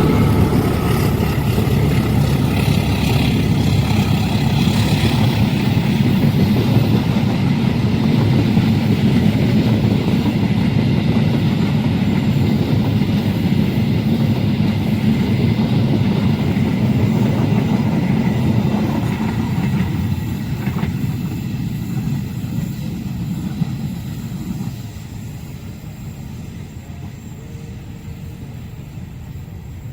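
Train passing fast over a level crossing: a loud, steady rumble of wheels on the rails that fades away over the last ten seconds or so as the train moves off.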